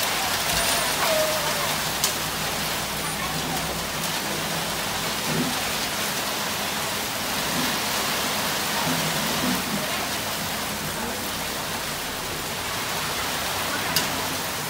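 Heavy rain pouring onto the road and pavement, a steady dense hiss, with a sharp tick about two seconds in and another near the end.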